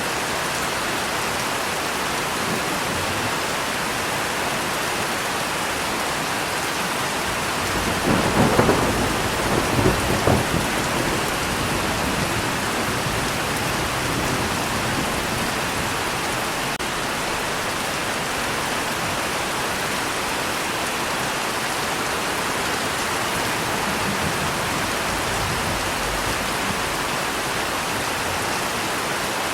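Steady rain falling, with a peal of thunder about eight seconds in that rumbles for two or three seconds before fading back under the rain.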